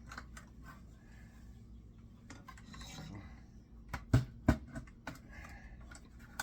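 Hand tools clinking and scraping against an electric motor being pulled apart for scrap, with light metal clicks throughout and two sharp metal knocks close together about four seconds in.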